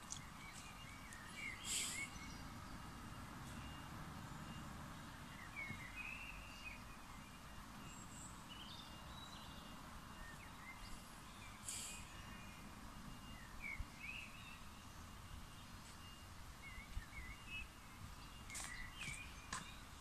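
Faint outdoor ambience with small birds chirping now and then in short, scattered calls, and a few brief rustling noises.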